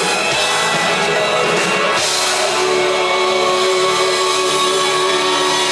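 Live rock band playing an instrumental passage between sung lines, with drums and guitars. A held chord rings from about two seconds in.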